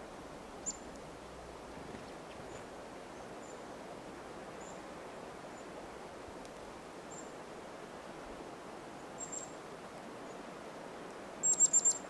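Small songbirds giving faint, short, high call notes every second or so over a steady outdoor hiss, then a quick loud run of about five high chips near the end.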